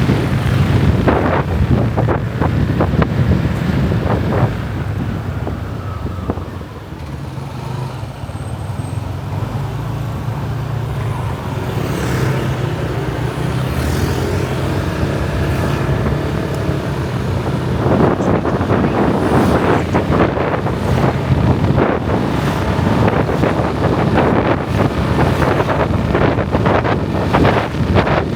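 Motorbike engine running during a ride, with wind buffeting the microphone. It eases off and goes quieter about six seconds in, then the wind buffeting grows heavy again from about two-thirds of the way through.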